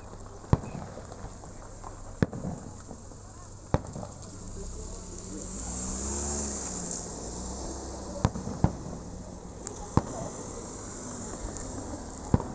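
Fireworks going off: about seven sharp bangs at irregular intervals, with a quick run of crackling pops starting right at the end.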